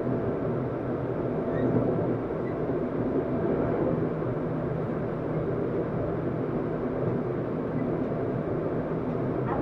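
Tokyu 7700 series electric train heard from inside the passenger car while running between stations: a steady rumble of wheels on rail and running gear, with no clear rise or fall in pitch.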